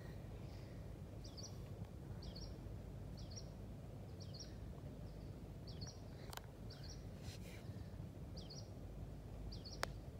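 A bird calling over and over, a short falling chirp about once a second, over a steady low outdoor rumble. Near the end comes one sharp click: a putter striking a golf ball.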